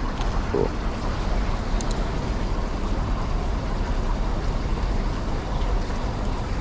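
Steady outdoor rumble of wind on the microphone over distant city noise, with two faint clicks in the first two seconds.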